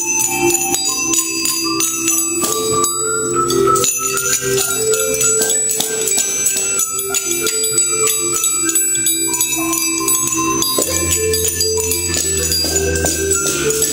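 Music with a melody, with jingle bells and other small metal percussion shaken and struck along to it.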